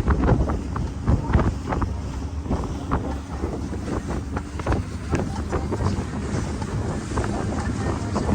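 Wind buffeting the microphone on a boat under way at sea, over a steady low rumble, with gusty rushes throughout.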